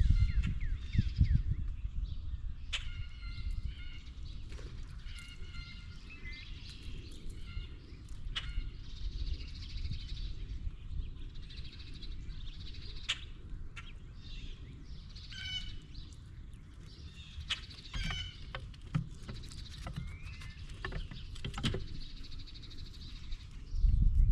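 Birds calling repeatedly at a feeding table, with scattered sharp ticks and a low steady background rumble.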